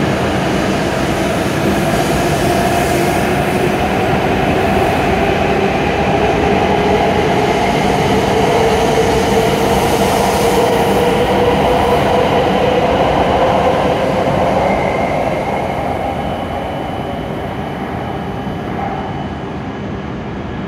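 A W7-series Shinkansen train pulls out past the platform. Its running noise carries a whine that rises steadily in pitch as it gathers speed, then fades as the last cars pass, about fifteen seconds in.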